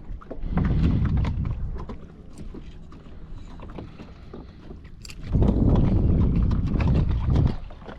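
Water and hull noise from a fishing kayak, with small knocks and splashes. Two stretches of low rumble come in, one about a second in and one from about five seconds in.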